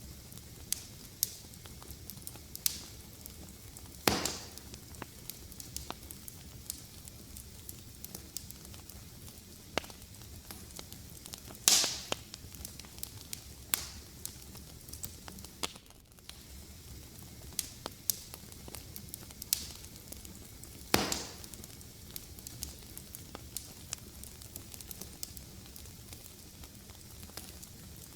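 Fireplace fire crackling: a steady low hiss with frequent small crackles. Three louder pops come about 4, 12 and 21 seconds in.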